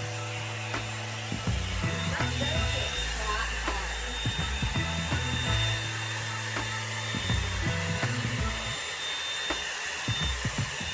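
Revlon One-Step hot air brush blowing steadily on its high setting, a constant airy rush with a thin high whine, over background music.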